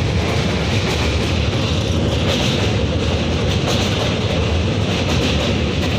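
Train running along the track: a steady, loud rumble of wheels and carriage, with a hiss that brightens about two seconds in.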